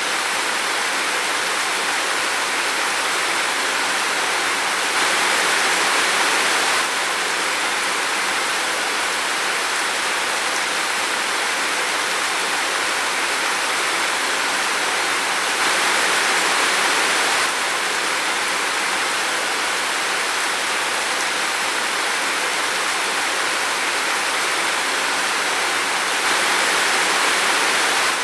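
Steady rain falling in a forest, an even hiss that swells slightly for a couple of seconds three times.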